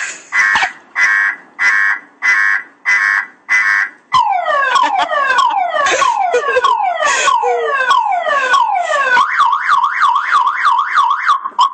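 Car alarm siren stepping through its tone sequence. First come pulsed beeps about every half second. From about four seconds in there is a run of falling whoops, and from about nine seconds a fast up-and-down warble.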